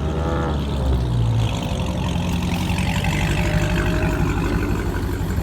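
Dodge Hellcat's supercharged V8 running hard as the car pulls out, a deep rumble that changes about a second and a half in, with a whine rising in pitch over the next few seconds. A short shout is heard at the very start.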